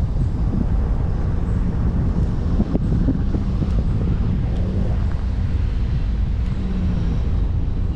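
Steady low rumble of a car driving on the road, with wind buffeting the microphone.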